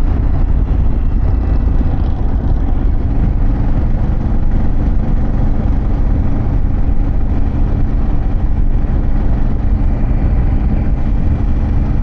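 Harley-Davidson Pan America V-twin engine running at a steady cruise while riding, its pitch holding level with no revving or gear changes.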